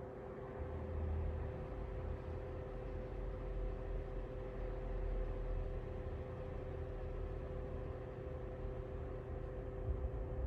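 Lasko ceramic tower space heater running: steady blower fan noise with a two-note hum, over an uneven low rumble.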